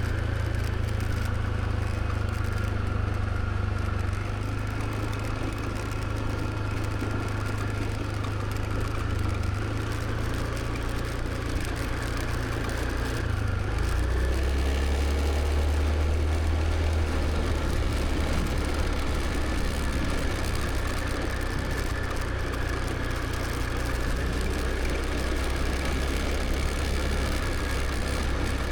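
Motor scooter engine running steadily on the move, with road and wind noise. The low engine note changes about halfway through.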